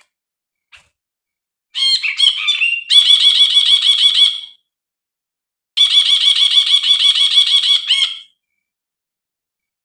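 Brinji bulbul singing, used as a lure and tutor call for training captive birds: two long phrases of rapidly repeated high notes, each two to three seconds long, with a pause between them.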